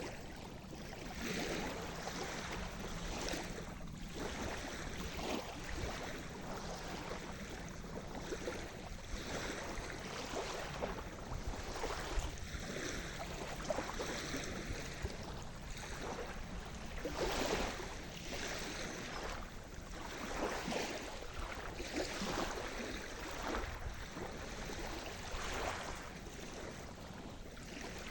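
Sea surf: small waves washing in and breaking one after another at irregular intervals of a second or a few, over a constant hiss of water.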